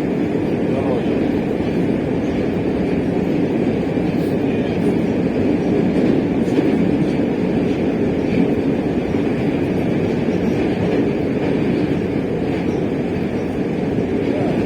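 Moscow Metro train running between stations, heard from inside the carriage: a steady noise of wheels on rails and the moving car, with no stops or announcements.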